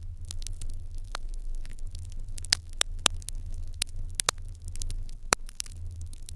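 Fire burning in an irori hearth, crackling with irregular sharp pops, a few louder snaps among them, over a low steady rumble.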